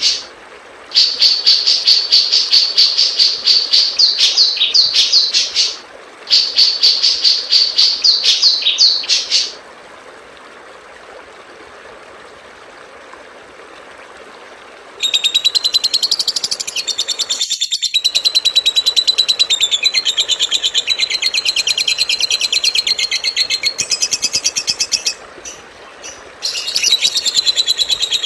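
Recorded songbird chirping played as a masteran tutor track: fast runs of high repeated chirps in phrases with short breaks, then a pause of several seconds, then a different, denser high chirping sequence from about halfway through.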